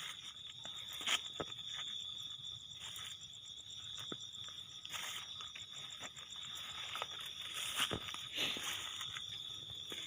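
Insects calling: a steady, high, unbroken buzz with a faster pulsing trill above it, and scattered soft knocks and rustles on top.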